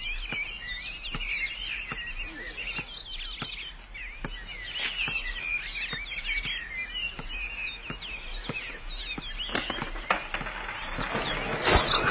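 Birds chirping, many quick overlapping calls, with faint scattered clicks; a louder rush of noise comes in near the end.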